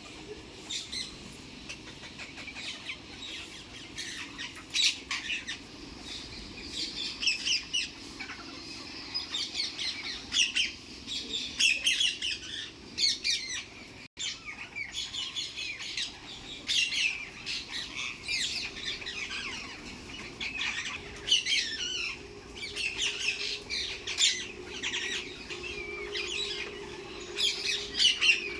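Pet parrots chirping and squawking, many short high calls overlapping without a break. The sound drops out for an instant about halfway through.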